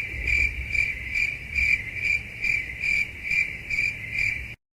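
Crickets chirping in an even rhythm, about two chirps a second, a stock sound effect that cuts off abruptly near the end.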